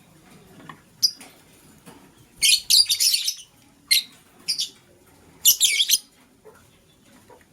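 Lovebirds chirping in short, shrill bursts: a brief chirp about a second in, then longer clusters of rapid chirps about two and a half and five and a half seconds in, with single chirps between.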